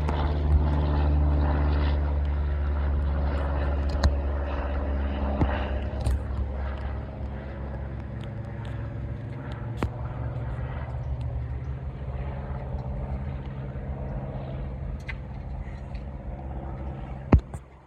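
Airplane engines passing by, loudest at the start and slowly fading away, with a few sharp knocks on top.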